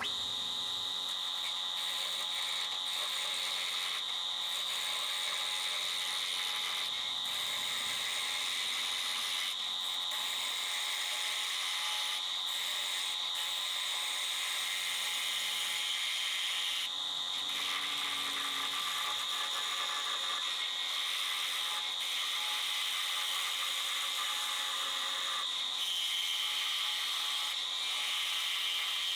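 Electric sander running steadily with a high-pitched motor whine, its pitch dropping slightly near the end, over a hiss that fits wood being sanded.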